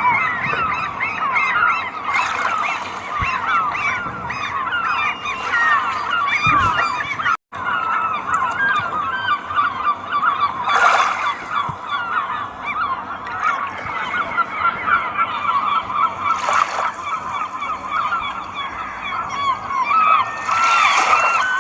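A flock of swans calling together, a dense, continuous chorus of many overlapping honking calls. It breaks off for an instant about seven seconds in, and a few short rushes of noise rise through it later.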